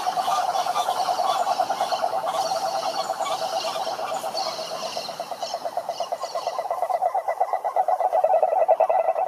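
A chorus of frogs calling at a pond: a dense, rapidly pulsing croaking that goes on without a break, with higher chirping calls over it for the first few seconds. The chorus dips a little past the middle and swells again near the end.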